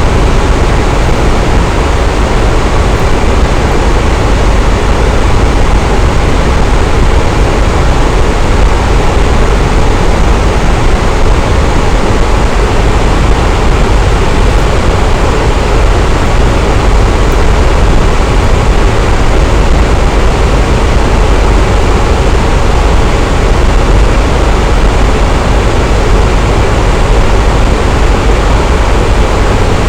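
Electric fan running steadily, a constant loud whooshing rush of moving air with a deep rumble underneath.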